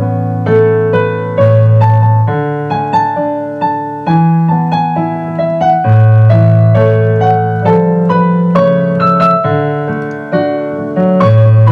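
Gentle piano music: struck notes over sustained low bass notes, with the chords changing every second or two.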